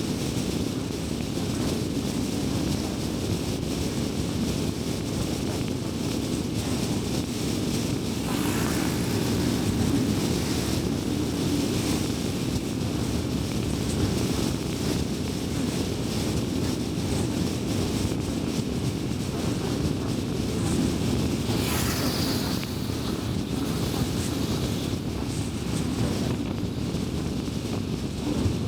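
A car driving at steady speed: a continuous low rumble of road and tyre noise. Two brief whooshes rise above it, about eight seconds in and again around twenty-two seconds.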